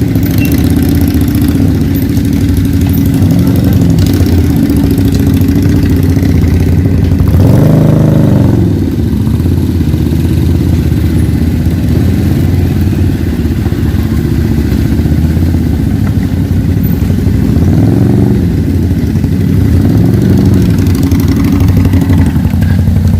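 Italjet Buccaneer 250i scooter engine running, its note rising and falling with the throttle several times. The strongest rev comes about a third of the way in.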